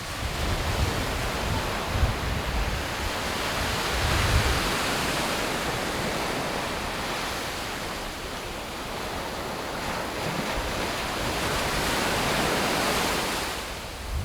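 Sea waves breaking and washing in on the beach, swelling loud about a third of the way in and again near the end. Wind rumbles on the microphone in the first few seconds.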